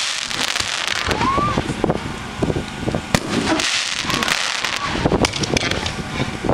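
3-inch 500-gram fireworks cake firing aerial shells: sharp bangs at an uneven pace over continuous crackling breaks.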